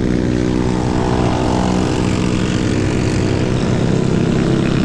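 A vehicle's motor drones steadily while riding at speed, with wind rumbling on the microphone.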